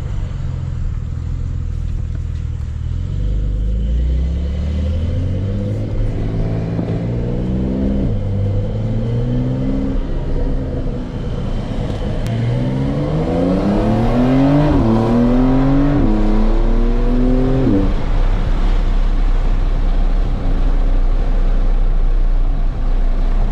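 Porsche 911 Carrera 4 GTS twin-turbo flat-six under hard acceleration. The engine note climbs and drops sharply at each upshift, about four shifts in all, the last close together. After the final shift it settles into a steady engine and road rumble.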